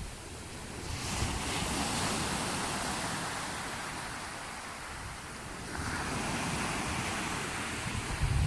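Sea waves washing in, with one surge about a second in and another near six seconds, and wind on the microphone.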